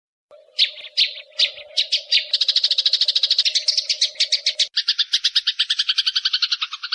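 A songbird chattering: a few separate chirps, then a fast run of about ten notes a second. About two-thirds of the way through it changes to a denser run reaching lower in pitch. A low steady hum sounds under the first part and stops at the change.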